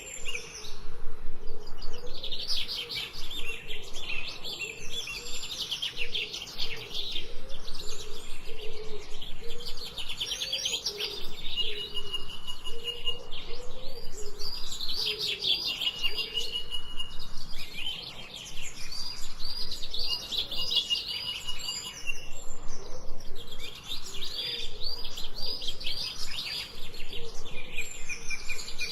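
Birds chirping in dense, rapidly repeated trills that keep going without a break, with a softer, lower repeated call underneath.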